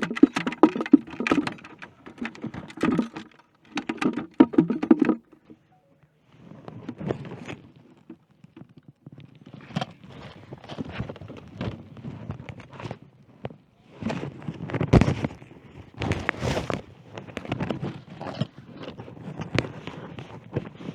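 Irregular knocks, thunks and rattles of a freshly netted trout and fishing gear being handled in a kayak, with a short pause about five seconds in.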